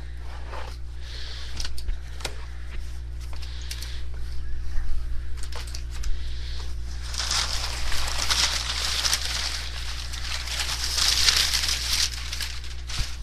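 Shipping box being unpacked by hand: scattered knocks and scrapes of cardboard, then from about seven seconds in, loud crinkling of packing paper.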